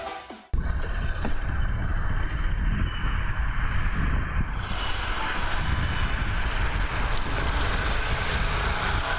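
Music cuts off about half a second in, giving way to steady vehicle noise with a low rumble and wind on the microphone.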